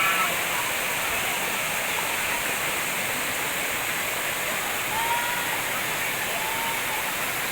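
Waterfall rushing steadily into its pool, an even hiss of falling water. Faint distant voices come through briefly about two-thirds of the way in.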